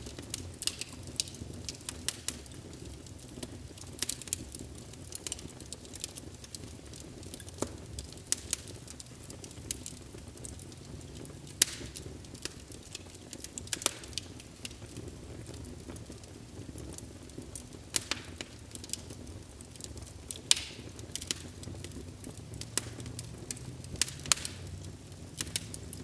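Wood fire burning in a fireplace: irregular sharp crackles and pops, several a second at times, over a steady low rush of the flames.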